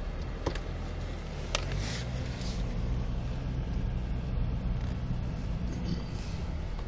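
A car driving through deep unplowed snow, its engine running steadily and working harder from about a second and a half in. There are two sharp knocks in the first two seconds.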